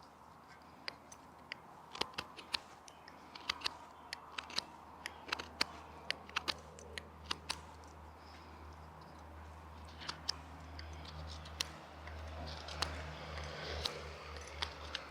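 Swiss Army knife blade whittling chips off a stick to shape a wedge: a scatter of short, sharp, irregular cuts and snaps, sometimes several a second, over a low steady hum.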